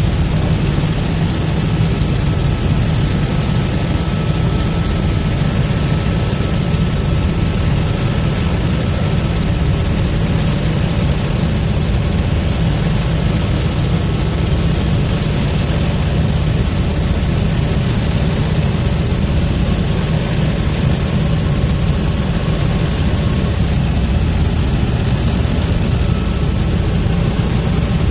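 Helicopter in flight: the steady engine and rotor drone, heavy and low.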